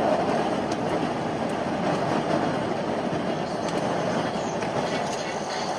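Steady running noise of a moving vehicle: a continuous, even rumble.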